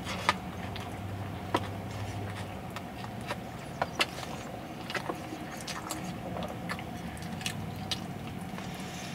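A person biting into and chewing a burger close to the microphone: scattered wet mouth clicks and smacks over a steady low hum.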